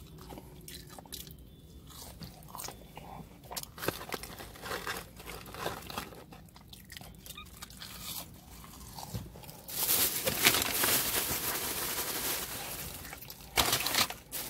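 A person chewing and crunching on fries close to the microphone, with scattered short crunches. About ten seconds in, a louder, denser rustling takes over for a few seconds.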